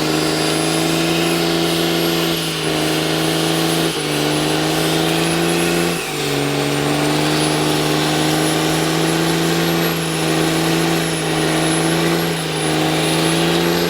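Truck engine held at high, steady revs during a burnout, dipping briefly in pitch four times before climbing straight back up.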